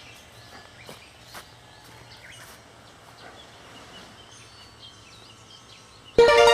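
Birds chirping and calling over quiet outdoor ambience. Near the end, music comes in suddenly with a loud, ringing piano-like note.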